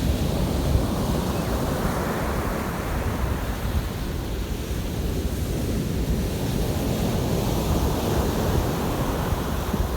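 Sea waves washing in, swelling twice, with wind buffeting the microphone as a steady low rumble.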